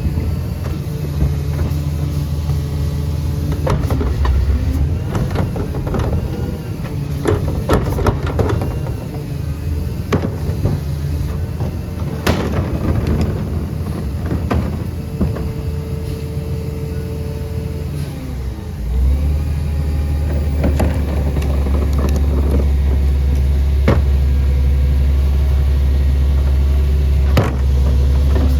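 CNG Peterbilt garbage truck with a Leach rear-loader body running at low speed, with repeated knocks and clanks. About two-thirds of the way through the engine steps up to a louder, steady higher speed.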